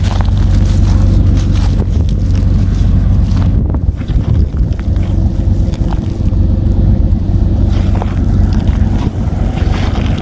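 A vehicle engine idling steadily after being started following a long sit.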